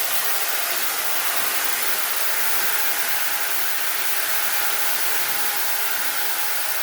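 A loud, steady hiss that starts suddenly and holds evenly, without clicks or a rhythm.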